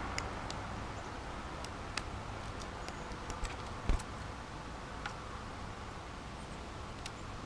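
Birds pecking at a suet feeder: scattered sharp taps, the loudest about four seconds in. Under them runs a low, steady rumble of road traffic that fades slightly.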